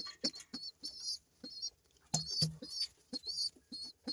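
Young pigeons (squabs) squeaking: many short, high-pitched wavering squeaks in quick succession, with a few soft knocks mixed in.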